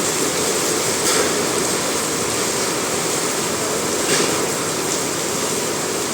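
Heavy rain pouring down steadily, an even rushing noise.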